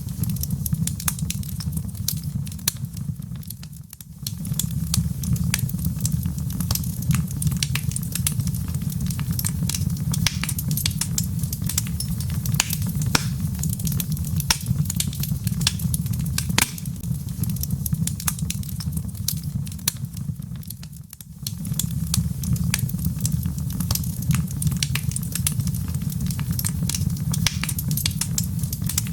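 Log fire crackling, with frequent sharp pops and snaps over a steady low rumble. The rumble fades out briefly twice, about four seconds in and again near twenty-one seconds.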